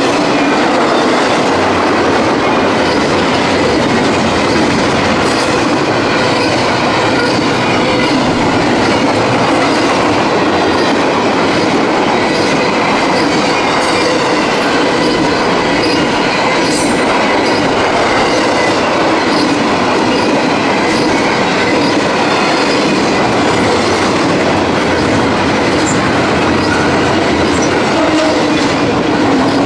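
Double-stack intermodal container freight train rolling steadily past at speed: a continuous loud rumble and clatter of wagon wheels on the rails.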